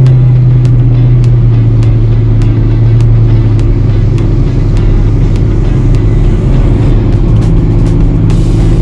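Chevrolet Camaro engine and road noise heard inside the moving car's cabin: a steady low drone whose pitch shifts upward about seven seconds in, with scattered light clicks.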